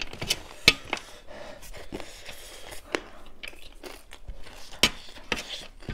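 Crunchy chewing and biting of dry chicken chatpate, a spicy puffed-rice snack: irregular crisp crunches with a few sharper cracks.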